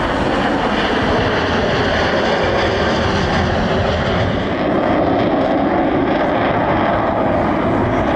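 Boeing EA-18G Growler's twin General Electric F414 turbofan engines producing a steady, loud jet roar as the aircraft flies.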